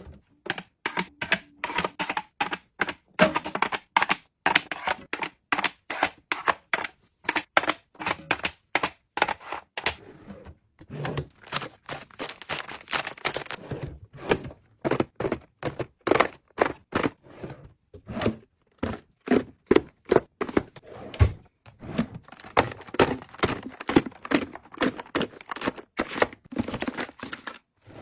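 Rapid, irregular tapping and knocking on hard objects, a few short clicks and taps each second.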